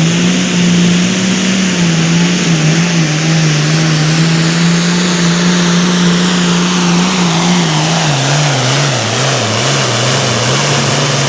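Super Farm class diesel pulling tractor running flat out under full load as it drags the weight-transfer sled. The engine note holds steady, then sags and wavers downward in the last few seconds as the growing sled load pulls the engine speed down, and a high whine falls along with it.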